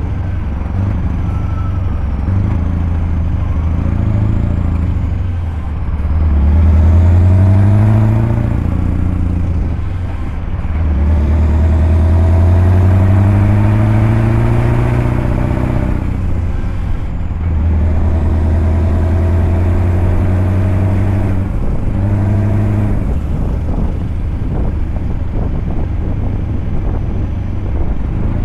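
Scania truck's V8 diesel engine pulling up through the gears: the engine note rises, drops back at each gear change and rises again, four times, then runs steadier near the end.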